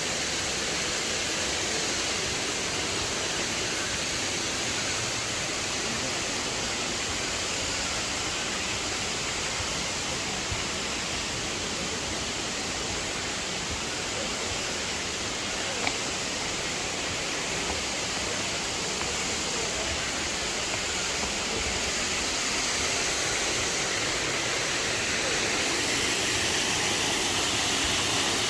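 Waterfall pouring steadily: an even, unbroken rush of falling water. There is one brief click about halfway through.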